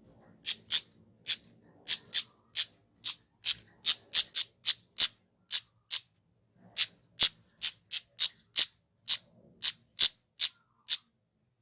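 Kemade (flowerpecker) calling: a long series of short, sharp, high-pitched notes, about two a second, with a brief pause about six seconds in. It is a recorded call used as a lure to set other flowerpeckers singing.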